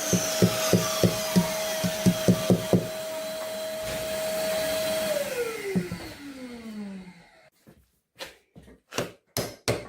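Rapid light hammer taps, about four a second, over a steadily running workshop motor. About five seconds in, the motor is switched off and winds down in pitch, followed by near quiet with a few scattered clicks.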